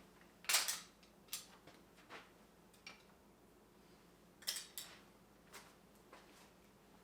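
Metal hand tools clinking and clacking as they are handled and set down one at a time, about eight knocks at uneven intervals, the loudest about half a second in and another close pair past the middle.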